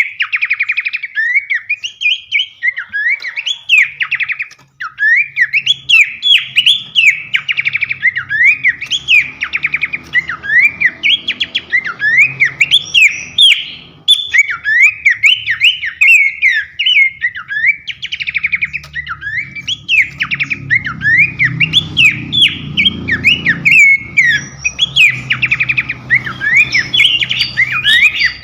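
Caged songbird singing a continuous, loud song of quick rising and falling whistled phrases laced with rapid trills, as played for training other cage birds. A faint low hum runs underneath from a few seconds in.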